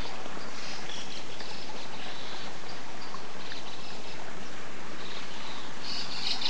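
Small songbirds chirping and twittering, many short calls overlapping, with a louder cluster of chirps near the end, over the steady rush of flowing river water.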